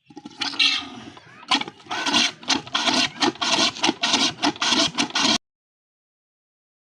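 Old Petter diesel tubewell engine running with a rhythmic chug of about four beats a second; the sound cuts off suddenly about five seconds in.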